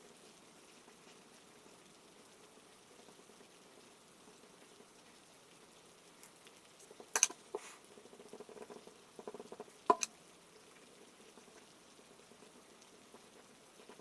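Soft, steady rain patter, with a handful of sharp ticks and short crackles clustered in the middle.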